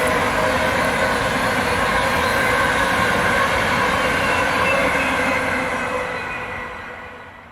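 A train passing at trackside: a steady rush of wheels on rails with several thin, high ringing tones over it, fading away in the last second or two.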